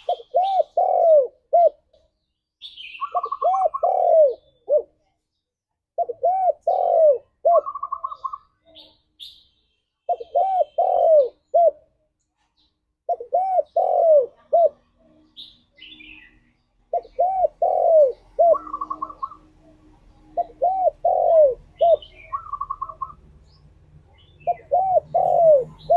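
Spotted dove cooing its song over and over: about eight phrases, each a run of a few arched coos, come every three to four seconds. Short, higher chirps fall between some of the phrases, and a faint low hum sets in about halfway through.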